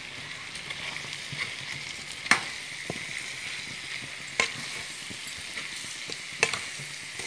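Chicken masala sizzling in a pan while it is stirred: a steady sizzle, with three sharp clicks of the stirring utensil against the pan about two seconds apart.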